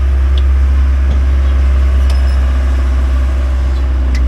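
Engine of a tourist road train running with a steady low drone, heard from on board as it pulls uphill, with a few faint clicks or rattles.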